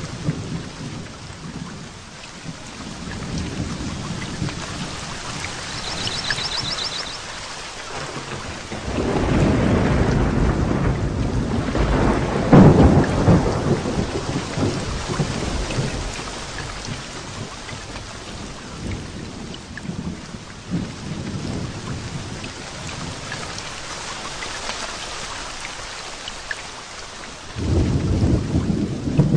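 Heavy rain falling steadily through a thunderstorm. A long rolling thunder rumble swells about a third of the way in, peaks and dies away. Another peal of thunder breaks in suddenly near the end.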